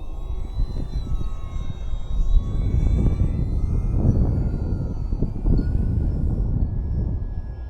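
Electric motor and propeller of a Flite Test Mini Baron RC airplane whining in flight. The pitch drifts slightly up and down as it flies. Heavy wind buffeting on the microphone rumbles underneath.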